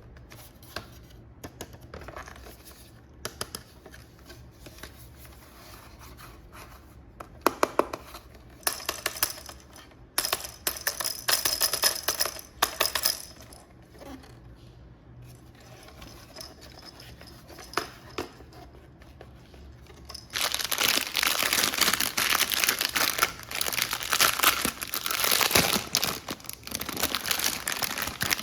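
Packaging being handled and torn open: scattered clicks and rustles, then from about 20 seconds in a long stretch of loud crinkling and tearing.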